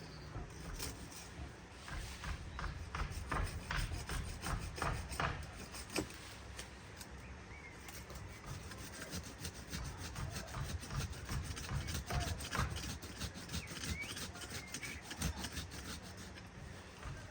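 Wood being worked by hand: a long, irregular run of short scraping, rasping strokes on branches or brush.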